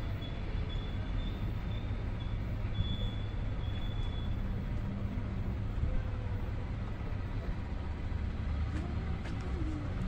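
Low, steady rumble of a distant train moving away down the tracks, with a faint high wheel squeal coming and going in the first few seconds.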